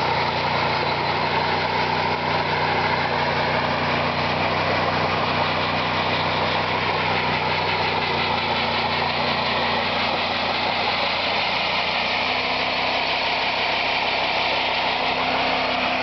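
Ford Crown Victoria police car's 4.6-litre V8 held at steady high revs in a burnout, the rear tyres spinning against the pavement. The engine has lost its antifreeze and is knocking, run to destruction.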